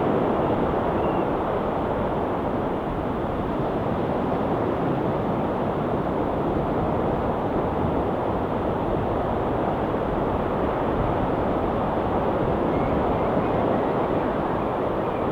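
Ocean surf washing steadily against the shore, a constant low rush with no distinct breaks or pauses.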